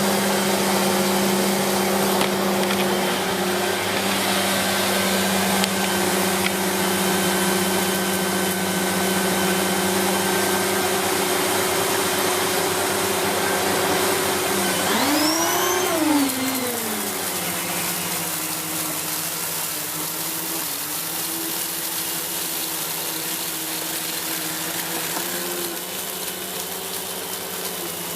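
Siemens Z6 Power 2500W bagged cylinder vacuum cleaner running steadily while vacuuming carpet with its air-driven turbo brush. About halfway through its pitch briefly rises and falls, and afterwards it runs a little quieter and lower.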